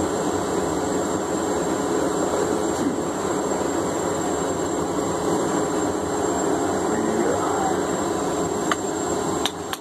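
Blacksmith's forge running with a steady roar, which cuts off near the end, followed by a couple of sharp metal taps.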